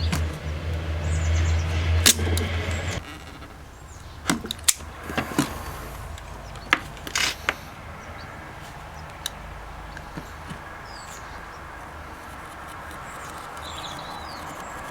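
A low machine hum runs for about three seconds and then stops. Scattered clicks and taps follow, the sound of small parts and tools being handled, with birds chirping faintly now and then.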